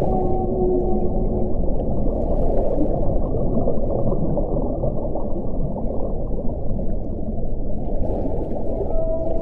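Strong wind blowing as a steady, dense rush of low noise, with faint moaning tones that hang for a second or so near the start and again near the end.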